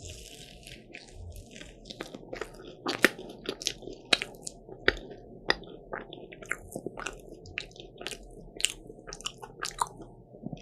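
A person biting and chewing a crisp croffle (croissant dough pressed in a waffle iron), a run of irregular sharp crunches roughly every half second over quieter chewing, the loudest about three seconds in.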